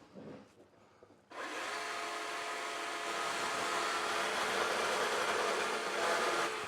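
A small motor-driven power tool starts abruptly about a second in and runs at a steady whir, then stops at the end.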